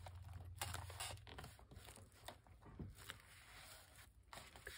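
Faint handling of paper and craft supplies on a tabletop: scattered soft rustles and small clicks over a low hum.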